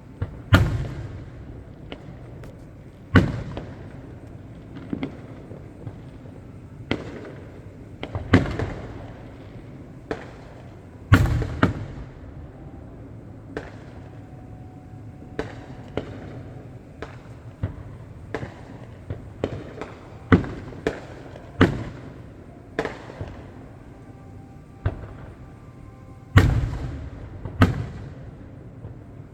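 Fireworks display: aerial shells bursting one after another at irregular intervals, about two dozen bangs, a handful of them much louder booms with a lingering rumble after each.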